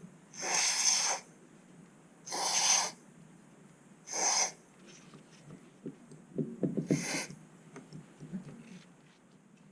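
Aerosol can of Teslanol contact cleaner with oil sprayed in four short hissing bursts onto the corroded contacts of a switch, washing them out. Small clicks from handling the switch come between the last bursts.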